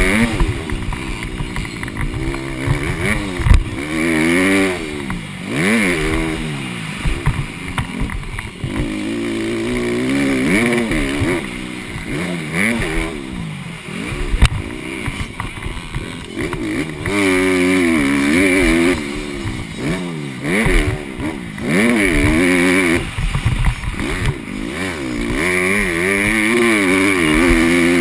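Honda CRF150R four-stroke single-cylinder dirt bike engine revving hard and falling off again and again as it accelerates, shifts and backs off for corners. Now and then it is held flat at high revs for a second or two.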